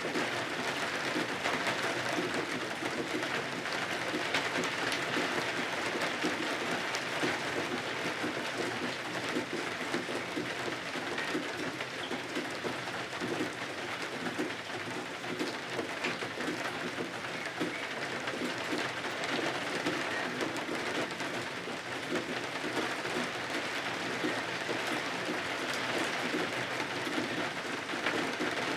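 Steady rain with a dense patter of drops, falling evenly throughout.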